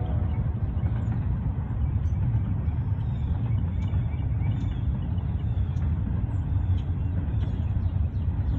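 Double-stack freight train rolling past, a steady low rumble of wheels and cars on the rails, with faint bird chirps above it.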